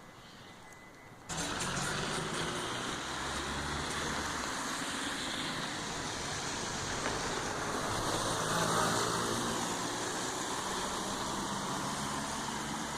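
A motor vehicle's engine running with steady road noise, cutting in suddenly about a second in.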